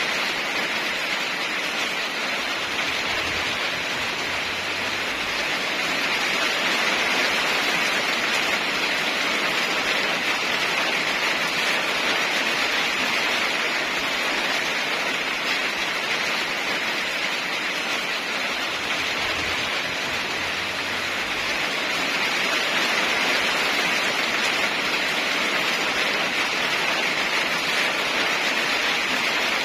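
Heavy rain falling in a steady, even hiss, with a faint low rumble twice.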